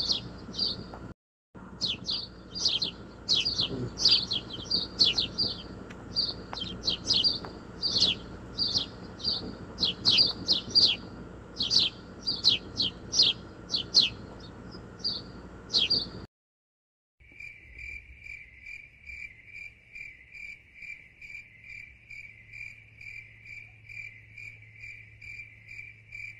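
Bird chirping: rapid, repeated short chirps, about two a second, over a faint low hum. After a brief break about two-thirds of the way in, this gives way to a steady pulsing insect trill, like a cricket, at roughly two pulses a second.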